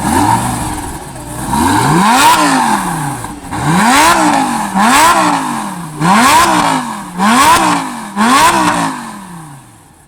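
Supercar engine revved in about six sharp blips from idle, each a rise in pitch that falls straight back. The blips come roughly once a second, and the engine settles and fades near the end.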